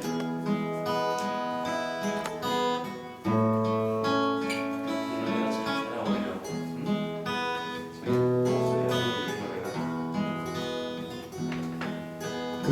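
Acoustic guitar strummed without singing, an instrumental interlude between sung verses, with the chord changing about three seconds in and again about eight seconds in.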